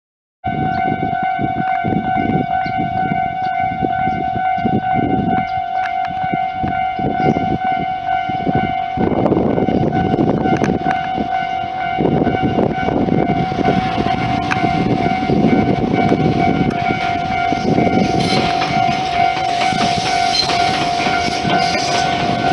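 Railway level-crossing alarm ringing steadily while a train passes, with the rumble and clatter of the train growing louder in the second half.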